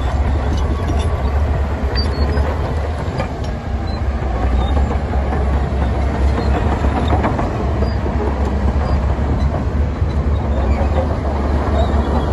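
Heavy diesel earthmoving machinery running steadily: a strong low engine drone with light clanking and rattling over it.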